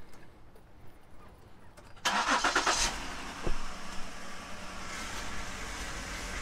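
2012 Ford Flex's 3.5-litre V6 started with the key: the starter cranks about two seconds in, and the engine catches and settles into a steady idle. A single sharp knock comes about a second after it starts.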